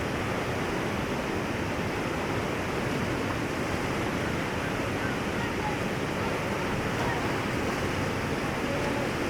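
Whitewater rapids: a steady, unbroken rush of churning river water.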